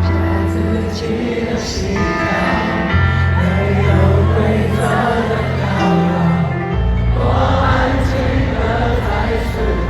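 Live pop concert music over an arena sound system, recorded from within the floor crowd: deep sustained bass notes that change every few seconds under held chords and choir-like singing.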